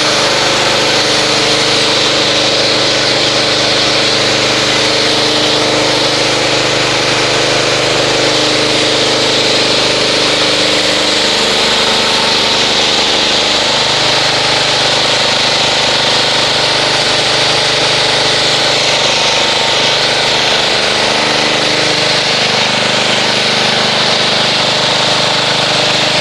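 Pressure washer running steadily, its motor humming under the loud hiss of the water spray as the car is rinsed.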